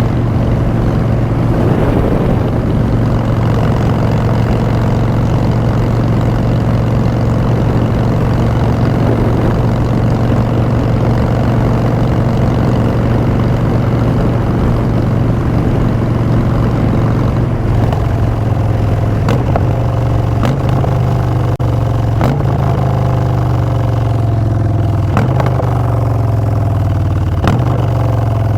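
Harley-Davidson Street Bob's Twin Cam 103 V-twin running through Vance & Hines Short Shots exhaust, cruising steadily. In the second half the engine note falls and shifts as the bike slows, with a few sharp clicks.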